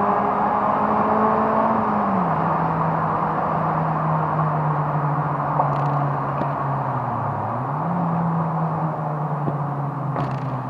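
Four-cylinder car engine, heard from inside the cabin while driving: a steady drone whose pitch drops about two seconds in as the revs come down, then dips and picks back up about three-quarters of the way through, over road noise.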